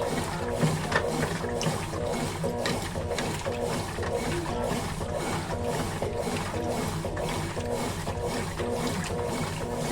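Consul Facilite 11 kg top-loading washing machine in its wash stage, churning the load in water with a steady rhythmic beat of about three strokes a second.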